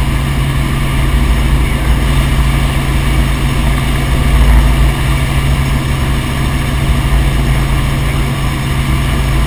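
Helicopter in flight: a steady, loud engine and rotor drone with an even hum and low rumble that does not change.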